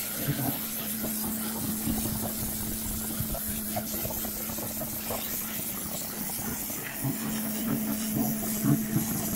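Pressure washer running steadily: a constant motor-and-pump hum with the hiss of the water jet spraying onto the patio paving.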